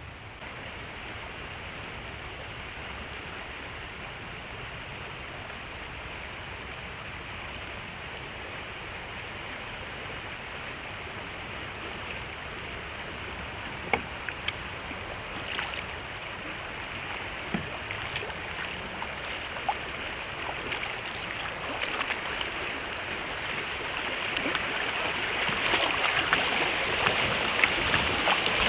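Steady rush of moving river water around a kayak, with a few light knocks and drips, growing louder over the last few seconds.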